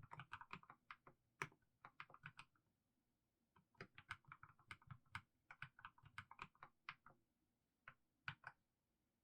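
Mechanical keyboard with fully lubed Haimu Sea Salt switches typed slowly, a run of individual keystrokes. There is a pause of about a second partway through, then another run, and a last few strokes near the end.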